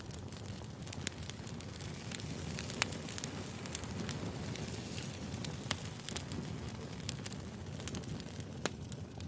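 Firewood burning and crackling: irregular sharp pops and snaps over a steady low rumble.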